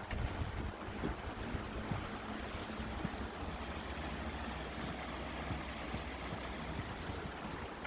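Wind rumbling on the microphone over a steady outdoor hiss, with a few faint high chirps in the second half.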